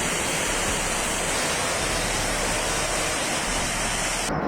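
Loud, steady rushing of water. Near the end the high hiss cuts off suddenly, leaving a lower rush.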